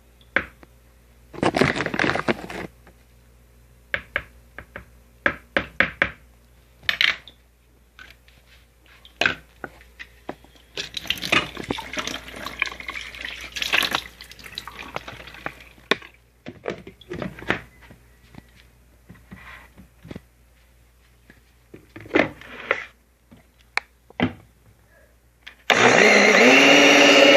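Kitchen clatter of utensils and containers being handled, with a stretch of scraping and rustling in the middle. Near the end a blender motor starts, spins up and runs loud and steady.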